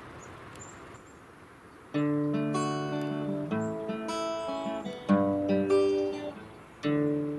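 Acoustic guitar music, plucked chords ringing out and changing every second or so, starting about two seconds in after a quiet start.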